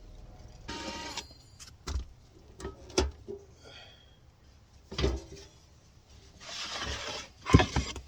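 Several sharp knocks and clunks, the loudest near the end, with short stretches of scraping and rubbing between them, as fittings are worked loose and pulled out of a van's interior.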